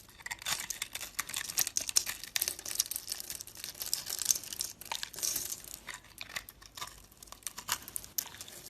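A blade carving a bar of soap: a dense run of crisp little scrapes and crackles as shavings come off. The scrapes thin out toward the end and stop abruptly.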